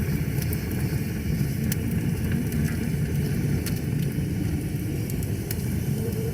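Wood fire crackling, with scattered sharp pops, over the steady low rush of a flowing river.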